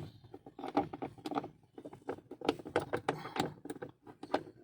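Quick, irregular clicks and small knocks of hand tools and metal parts being handled.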